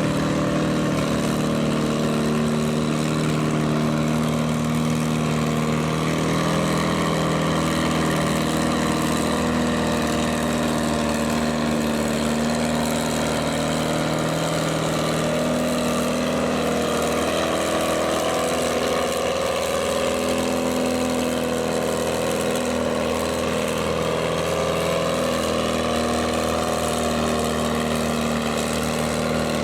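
Farm tractor engine running steadily, its pitch drifting slowly up and down.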